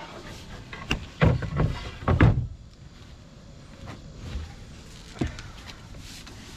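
A few knocks and thumps of gear being handled on a sailboat, loudest in a cluster about one to two and a half seconds in, with a single lighter knock near five seconds.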